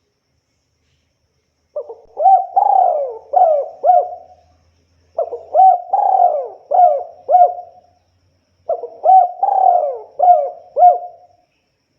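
Spotted dove (tekukur) cooing: three repeated phrases of four or five low coos each, the first starting about two seconds in, with short pauses between phrases.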